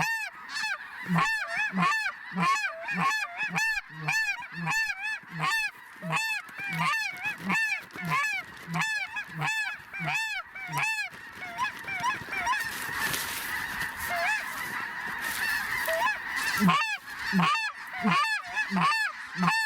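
Snow goose honking: high, yelping calls repeating evenly about two a second. Midway they blend into a dense chorus of many overlapping calls for a few seconds before the evenly spaced calls return.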